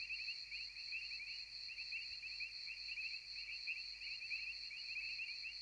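Faint, steady chorus of insects chirping, a fast even pulsing with a thin high band above it, like crickets at night.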